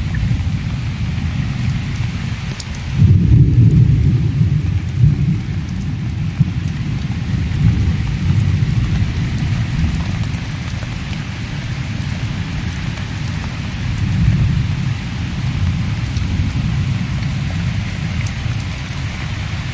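Steady rain falling, with a low rumble that swells about three seconds in and again later on.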